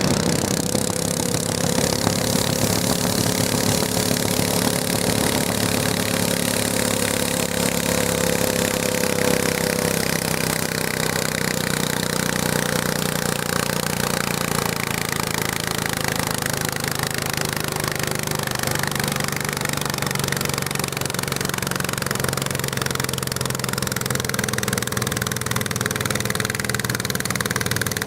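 Garden tractor engine running steadily and loudly. A higher engine tone fades out about ten seconds in, while lower engine tones carry on.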